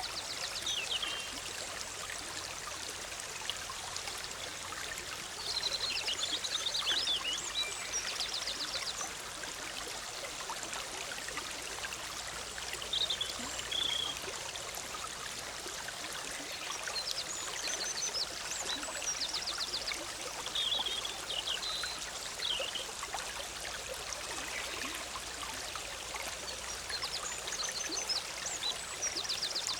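Forest stream, the Big Sur River, bubbling steadily over rocks, with songbirds singing short high phrases every few seconds, some of them fast trills.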